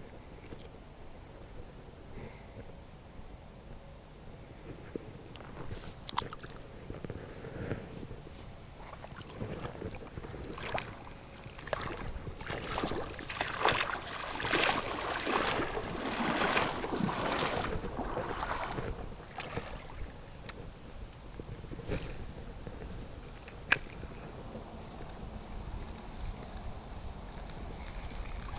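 Water sloshing and splashing, heaviest for several seconds in the middle, over a steady outdoor background, with two sharp clicks, one early and one near the end.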